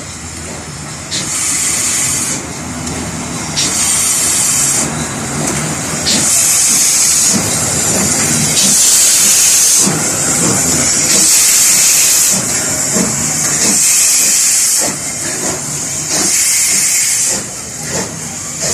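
FS 640 steam locomotive working slowly, its exhaust coming as long hissing chuffs about one every two seconds over a low rumble.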